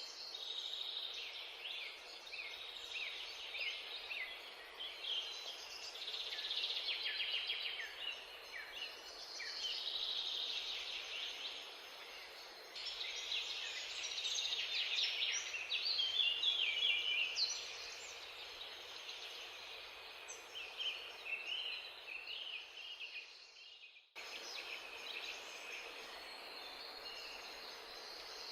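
Many small birds chirping and chattering at once, a dense run of short overlapping calls over a steady hiss. It breaks off for a moment near the end, then resumes.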